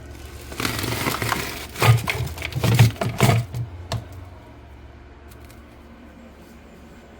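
Cracking, scraping and several sharp knocks at the inside of a fridge with an iced-up evaporator coil, running from about half a second to four seconds in, over a steady low hum.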